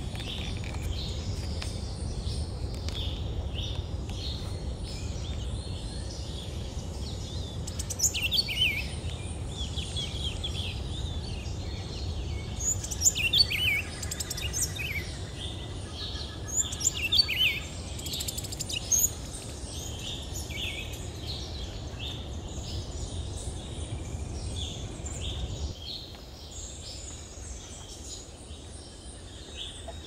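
Several birds calling and chirping, with a few louder, sharp chirps through the middle, over a low steady rumble that drops away near the end.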